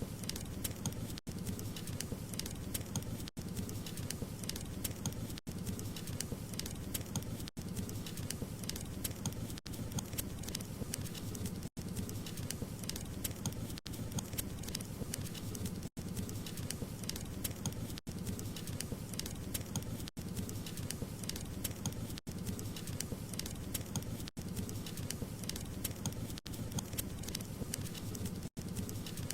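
Wood fire crackling and popping over a steady low rush of flames, broken by a very short gap about every two seconds.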